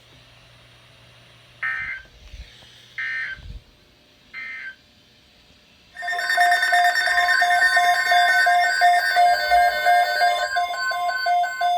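NOAA Weather Radio SAME data signal: three short, buzzy digital bursts a little over a second apart, marking the end of the warning message. About six seconds in, a loud, pulsing electronic alert tone starts and keeps beeping, the weather-alert alarm that heralds the next warning.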